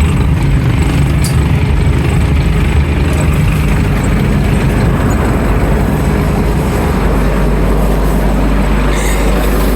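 Scania N310UA articulated city bus running, a loud steady low rumble with road and body noise. About seven seconds in, the rumble evens out into a steadier low hum as the engine settles toward idle.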